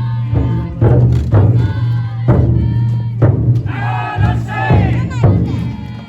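Taiko drum of a futon-daiko festival float struck in a steady beat, about one to two strikes a second, with a group of voices chanting and singing over it.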